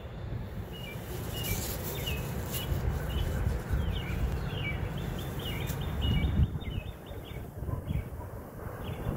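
Small birds chirping repeatedly in short, quick calls, over a steady low rumble.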